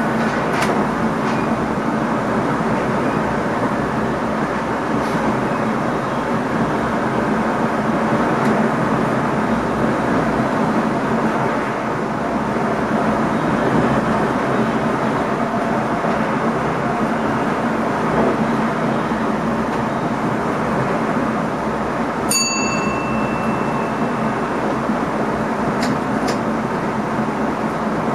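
Inside the driver's cab of an NS ICM (Koploper) electric multiple unit running along the line: a steady rumble of wheels on rails and running gear. About 22 seconds in comes a click, then a short high beep.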